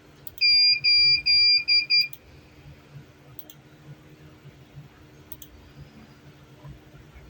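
Electronic beeper sounding about five quick high beeps in a row, the later ones shorter, followed by a couple of faint clicks over a low hum.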